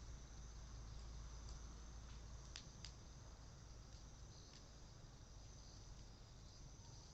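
Faint, steady chirring of insects, with a few sharp pops from a cedar-wood bonfire, two of them close together about two and a half seconds in.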